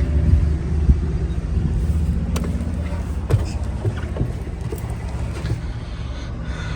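A vehicle engine idling with a steady low rumble, with several short sharp clicks and knocks on top.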